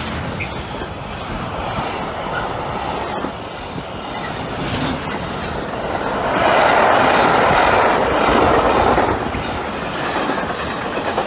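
Container freight train's wagons rolling past, the steady noise of steel wheels on the rails, growing louder for a few seconds about six seconds in.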